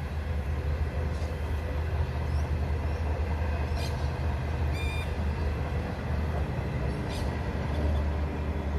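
Indian Pacific passenger train rolling past over a railway bridge: a steady low rumble with a few brief high squeaks.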